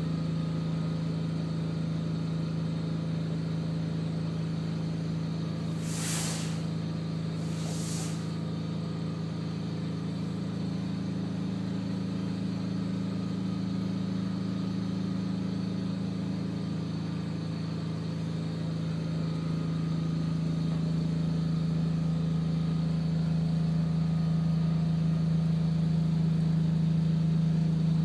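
An engine idling with a steady low hum, broken by two short hisses about six and eight seconds in.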